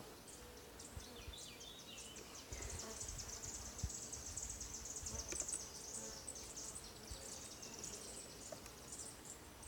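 Honeybees humming quietly around an open hive as frames are inspected: a low, steady hum that the beekeeper takes as the sound of a calm colony with a queen. High insect chirping runs over it, with a few low handling bumps a few seconds in.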